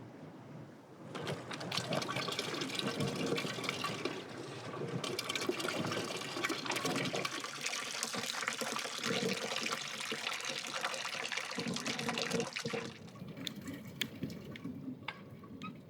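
Freshly pressed orange juice pouring in a steady stream that starts about a second in and stops near the end, followed by a few light clicks.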